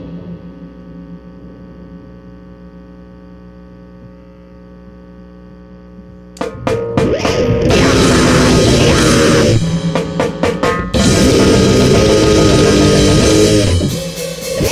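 Noise grind band playing: a sustained droning chord with a steady hum for about six seconds, then the drums and distorted guitar crash in at full volume in a dense, chaotic blast, with a few stop-start hits around ten seconds in.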